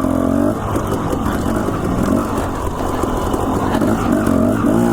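Dirt bike engine running on a trail ride, its revs rising and falling with the throttle.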